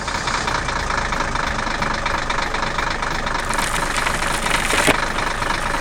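Vehicle engine running steadily at idle.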